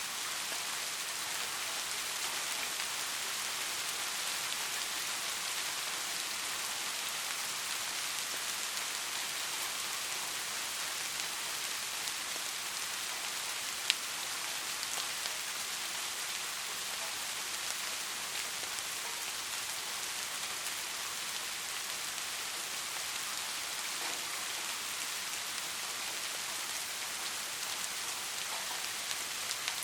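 Steady, soft rain falling with a constant patter of raindrops, and a single sharp tick about halfway through.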